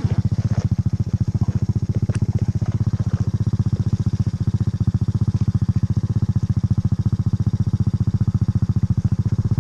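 Quad bike engine running at a steady speed, its even, rapid firing pulses unchanging throughout.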